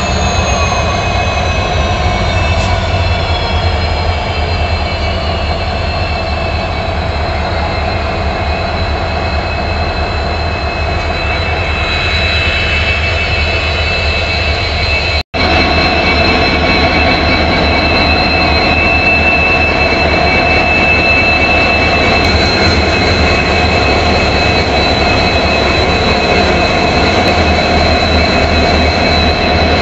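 Train hauled by twin EMD diesel locomotives running: a steady loud rumble with high, steady whining tones over it, some falling in pitch during the first few seconds. About halfway the sound cuts out for a split second, then carries on.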